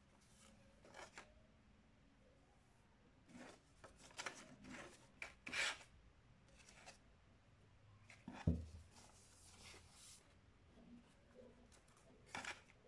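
Paper rustling and rubbing in scattered short scrapes, with one duller thump about eight and a half seconds in.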